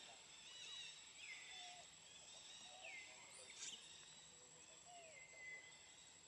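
Faint outdoor ambience of birds calling about four times, each call falling in pitch and then holding briefly, over a thin steady high tone.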